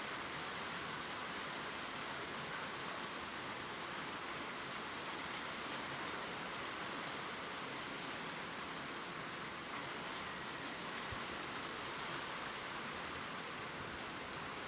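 Gentle rain falling steadily on leaves: an even, constant hiss with faint scattered drop ticks.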